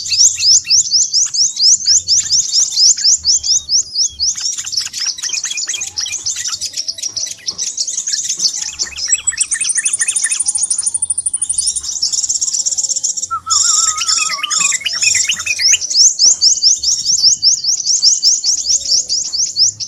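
Scarlet minivets (sepah raja) calling excitedly in a bird-lure recording: fast, continuous, high-pitched chirping trills. A thin, steady high whistle joins a little before halfway, and lower chirps come in about two-thirds through.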